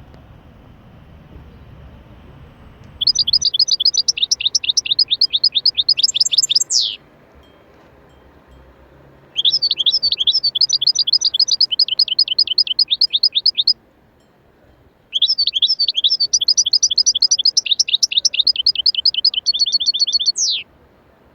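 A small songbird singing three long songs a few seconds apart, each a rapid run of repeated high chirps. The first and last end in a quick sharp sweep.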